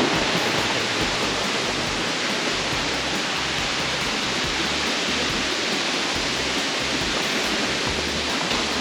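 Waterfall or cascading creek water rushing in a steady, even hiss.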